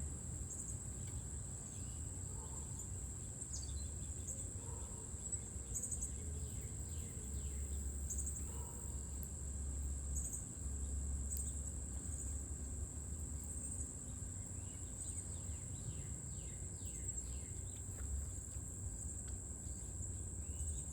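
A steady, high-pitched insect trill runs unbroken, with scattered short bird chirps and calls over it and a low background rumble.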